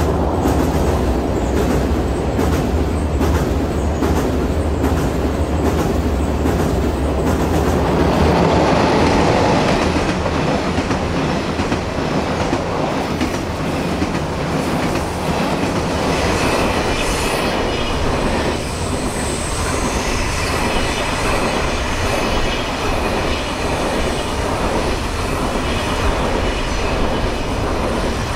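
KTX high-speed trains running fast over a steel girder railway bridge. The wheels clatter in an even rhythm at first, then settle into a steady, loud rumble.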